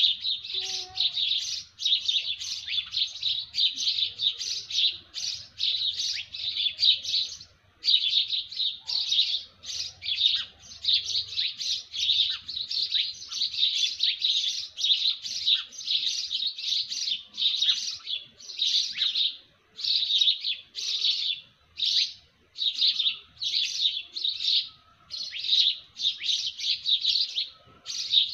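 Birds chirping in a fast, steady run of short high calls, about two to three a second, pausing briefly about eight seconds in.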